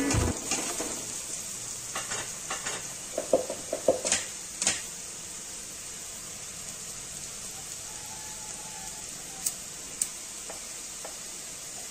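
Sliced onions, green chillies and whole spices sizzling in hot oil in an aluminium pot, with a steady hiss. A spatula scrapes and knocks against the pot several times in the first few seconds and twice more near the end.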